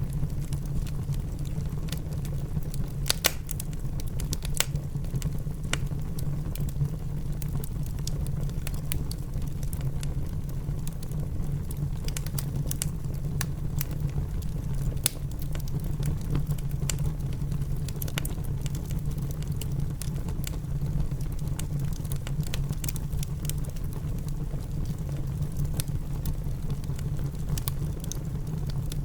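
Wood fire crackling in a fireplace, with sharp pops scattered irregularly throughout, mixed with steady rain over a continuous low rumble.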